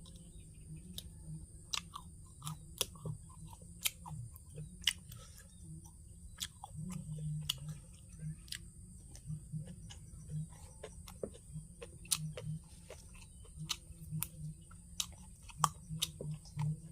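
A person chewing a mouthful of papaya salad and grilled shellfish, with frequent sharp wet clicks and smacks.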